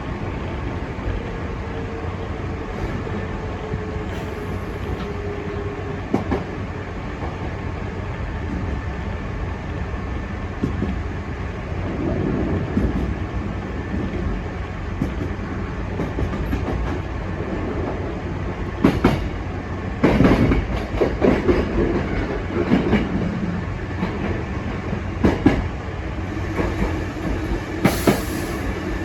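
Hankyu Imazu Line electric train running on the track: a steady rumble, with a whine that falls slightly in pitch over the first few seconds. Wheels click and knock over rail joints, most busily about two-thirds of the way through and again near the end.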